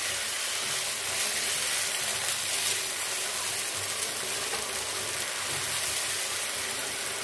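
Chicken masala sizzling steadily in a hot nonstick pan just after a little water is added, as a spatula stirs it through.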